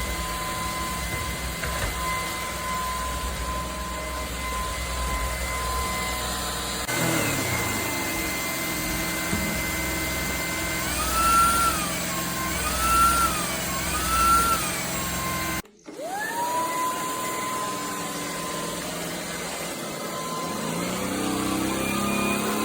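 Shark PowerPro cordless stick vacuum running with a steady high motor whine. About halfway through, its pitch rises and falls three times. After a brief break, the motor spins back up to the same whine.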